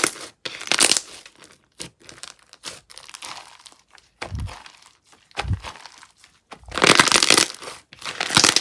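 Slime being squeezed and stretched by hand, making bursts of crisp crackling and crunching, with two soft low thuds around the middle and the loudest burst near the end.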